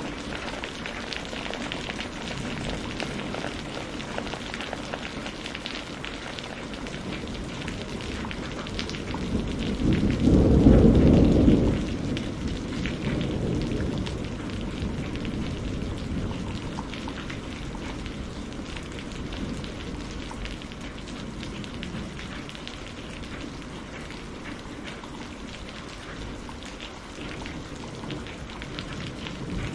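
Steady rain falling, with a rumble of thunder swelling up from about ten seconds in, peaking briefly, then rolling away.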